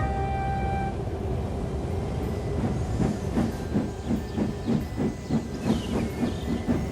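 Background music ends about a second in, then a steam locomotive sound effect chuffs in a steady rhythm of about three puffs a second.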